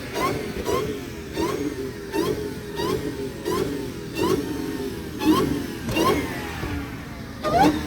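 A car engine revved over and over in quick blips, about three every two seconds, each one a short rise in pitch. A faster run of blips comes near the end.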